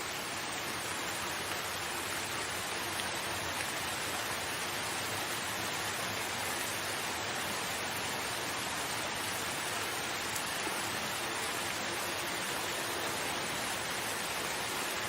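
Steady rain falling as an even, unbroken hiss, with no single drops or gusts standing out.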